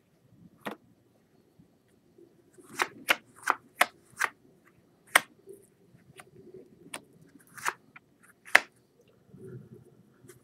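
Playing cards being flipped face up and snapped down one at a time on a table: a string of crisp card snaps, several in quick succession about three seconds in, then more spaced out.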